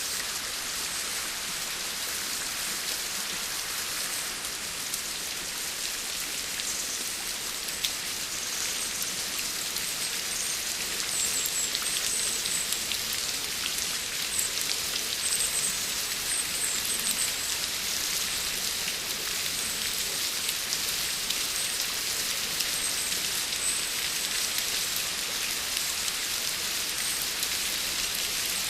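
Steady rain falling and pattering on surfaces, an even hiss that grows slightly heavier about a third of the way in.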